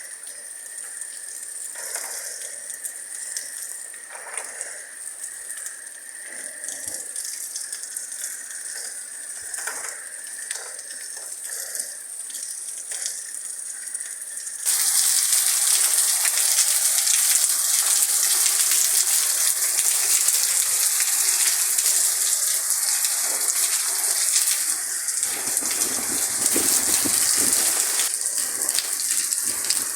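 Heavy rain falling in a storm, a steady hiss with scattered drop clicks that abruptly becomes much louder and denser about halfway through.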